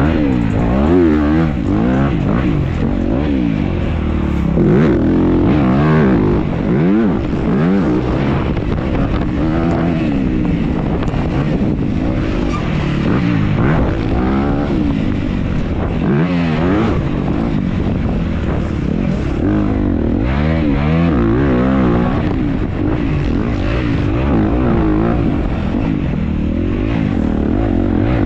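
Dirt bike engine revving hard as it is ridden around a motocross track, its pitch climbing and falling again and again as the rider accelerates, shifts and backs off. It is heard on board the bike.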